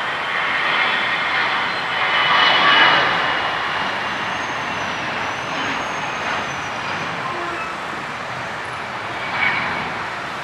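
Airliner engines rushing steadily as an aircraft passes, loudest about two to three seconds in, with a faint high whine over the middle of the sound.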